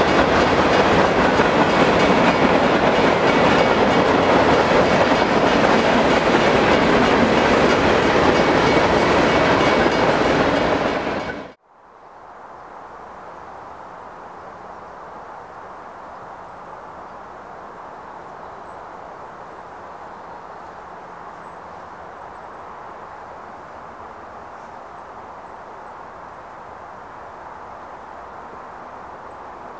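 Freight cars of a passing train rolling by, a loud steady rumble with clickety-clack of the wheels, which fades out abruptly about eleven seconds in. After that comes a much quieter steady background, with a few faint high bird chirps.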